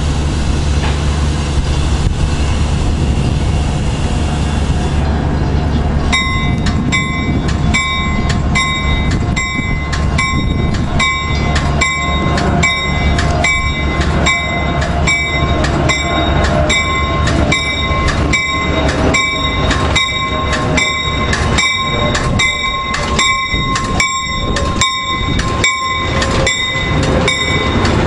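Amtrak passenger train rumbling into the station and along the platform. From about six seconds in, a bell rings steadily, a little faster than once a second, over the train noise.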